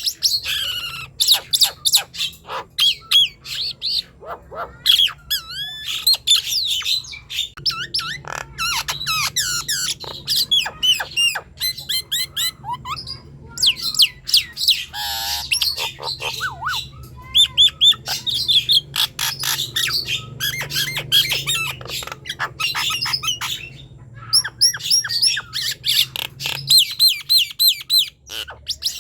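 Nias hill myna singing energetically: a rapid, varied stream of loud whistles that glide up and down, harsh squawks and sharp clicking notes, broken by a few short pauses.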